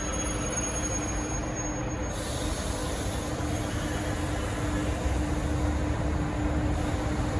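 High-speed train running, a steady rumble with a constant low hum. A thin high whine cuts out about two seconds in, giving way to a hiss.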